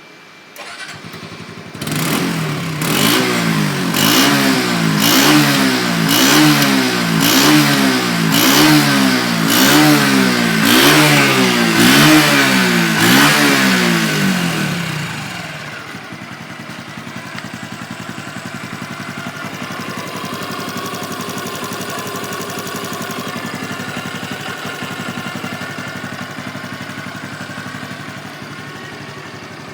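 A 2019 Honda Super Cub 110's single-cylinder four-stroke engine starts about two seconds in. It is blipped up and down in quick, regular revs for about thirteen seconds, then settles into a steady idle.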